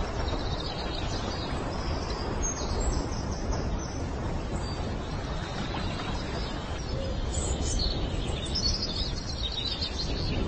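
High bird chirps in two spells, early on and again near the end, over a steady low rushing noise.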